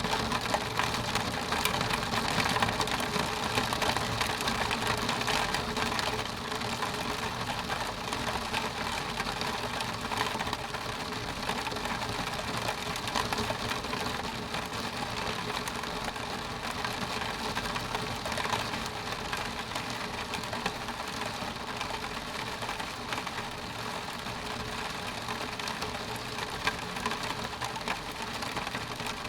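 Rain falling on window glass: a steady dense hiss of countless fine drop ticks, a little heavier for the first few seconds.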